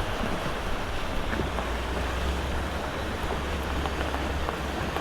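Boat engines running with a steady low rumble, mixed with the wash of water and wind on the microphone.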